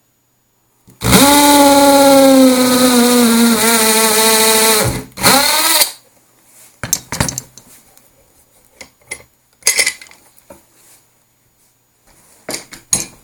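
Electric drill with an 8.5 mm bit boring a chassis screw hole through a tolex-covered wooden amp cabinet. The motor whine sinks a little in pitch as the bit bites, runs about four seconds, then comes back in one short burst. Scattered light clicks and knocks of handling follow.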